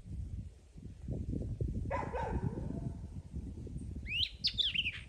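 Pigs moving and grunting in a hog pen: a steady low shuffling and rustling, a pitched call that falls in pitch about two seconds in, and a quick run of short, high squeaks near the end.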